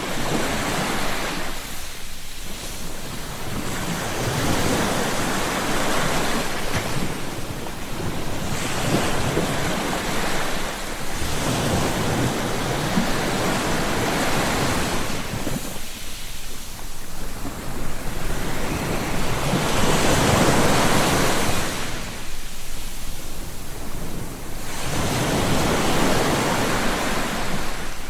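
Ocean surf: waves breaking and washing in, the sound swelling and falling back about every four to five seconds.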